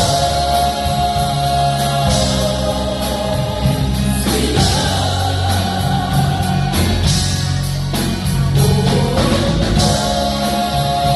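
Gospel choir singing with a band, holding long notes over bass and a steady drum beat.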